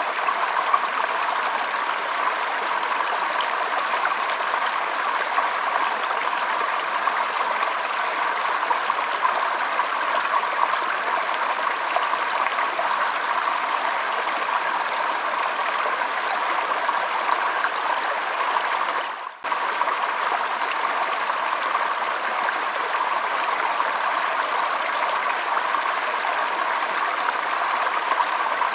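Shallow stream trickling and flowing steadily, an even rush of running water. The sound drops out for an instant about two-thirds of the way through.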